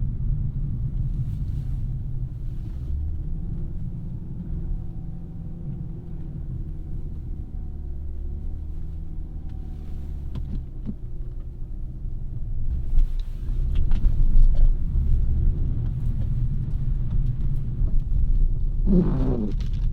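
A 2017 Audi A3's 2.0-litre turbocharged four-cylinder and its tyres heard while driving: a steady low rumble, with more road noise and a few louder knocks from about two-thirds of the way in. A brief higher sound that sweeps in pitch comes near the end.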